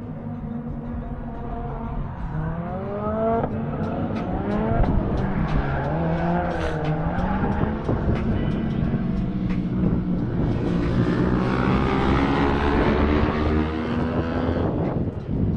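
Go-kart engine being driven around the track, its pitch rising and falling again and again as the throttle opens and closes.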